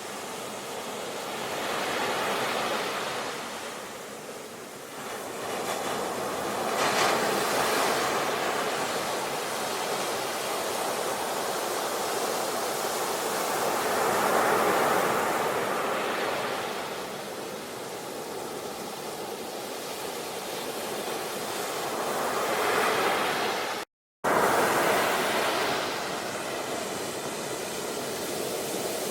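Ocean surf: waves swelling and washing in and out every few seconds. The sound cuts out completely for a split second about 24 seconds in.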